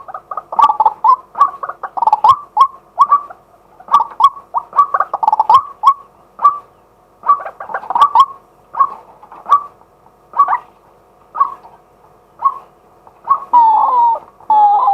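Male white-breasted waterhen calling: an irregular run of short calls, roughly two a second, with a quicker series of falling notes near the end.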